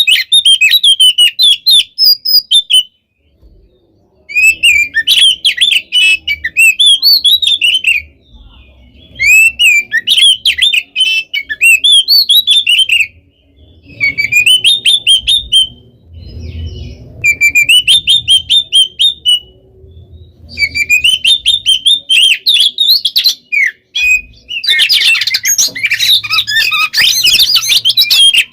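Oriental magpie-robin singing a fast, packed song of rapid sweeping whistled notes. It comes in loud phrases a few seconds long with short pauses between them, and near the end it runs on without a break, denser and louder.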